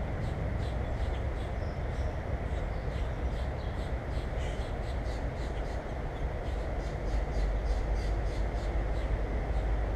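Birds at a feeder giving many short, high chirps in quick irregular succession, over a steady low rumble.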